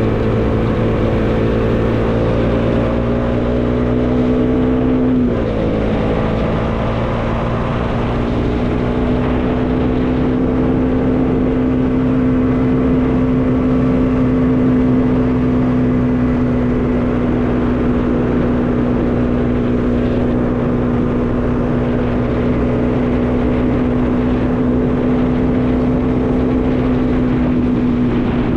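Bajaj Dominar 400's single-cylinder engine running at a steady cruise under wind rush. About five seconds in, the engine note drops a step, then holds nearly level.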